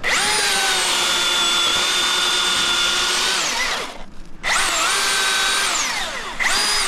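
Milwaukee battery-powered chainsaw running at full throttle with a steady high electric whine. A long burst of about three and a half seconds winds down and stops, then after a short pause a second burst starts; it is briefly let off near the end and picked up again.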